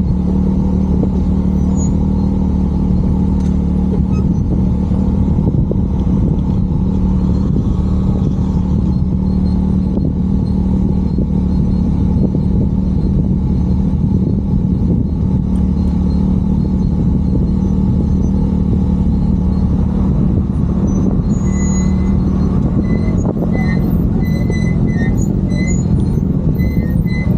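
A vehicle's engine running at a steady speed with a constant, even drone, along with road noise.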